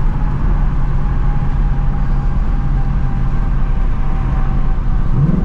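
2024 Ford Mustang GT's 5.0-litre V8 with its stock active exhaust, droning steadily at low revs while cruising, with a short rise in pitch near the end. The revs are kept low because the engine is still being broken in.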